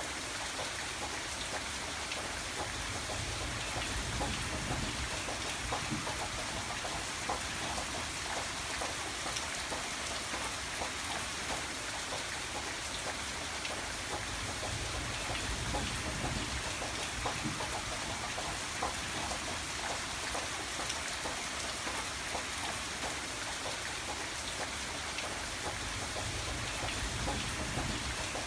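Steady rain falling, a dense patter of drops on a surface with a soft low rumble underneath that swells and eases slowly.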